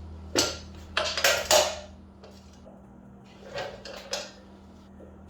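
Metal clinking and clattering of hand tools and brake parts as a motorcycle's rear brake caliper is worked free: one sharp clink, a quick cluster about a second in, then a few lighter clinks near the end. A steady low hum runs underneath.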